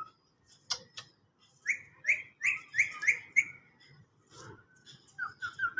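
Green parrot chirping: after two sharp clicks about a second in, a run of five or six short, sharp chirps, each falling slightly in pitch, about three a second, then a quicker run of shorter notes near the end.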